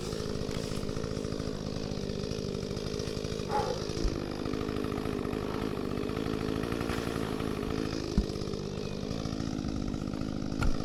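Echo CS-355T two-stroke top-handle chainsaw idling steadily, with no revving or cutting load.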